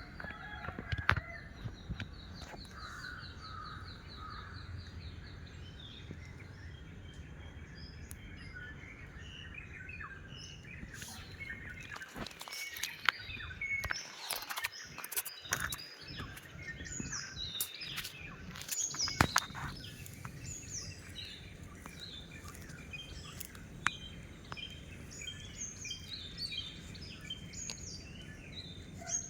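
Small birds chirping in many short, high notes, busiest in the second half. A few sharp knocks stand out among them.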